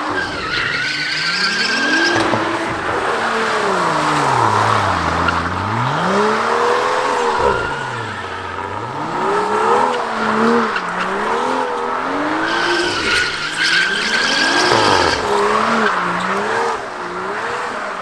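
Car engine revving up and down over and over while its tyres squeal and skid, with the loudest squealing near the start and again in the last third.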